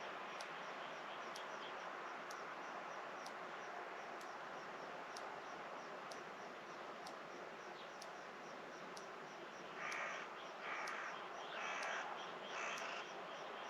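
A crow cawing four times in quick succession near the end, over steady outdoor hiss and faint, rapid high-pitched chirping.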